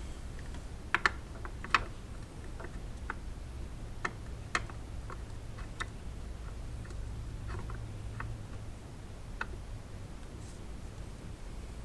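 Irregular sharp clicks and light metallic taps from hand tools and parts, loudest in a cluster about a second in, then scattered singly. A low steady hum runs underneath.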